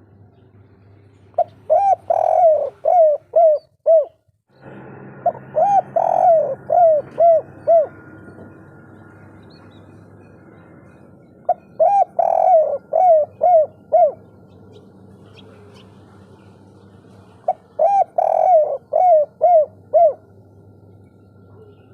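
Spotted dove (derkuku) singing its 'kuk 3' song: four phrases of repeated low coos, each about three seconds long, coming roughly every six seconds.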